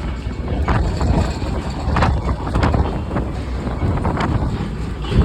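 Rumble of a train car riding along the track, with irregular sharp clacks from the wheels and car, and wind on the microphone.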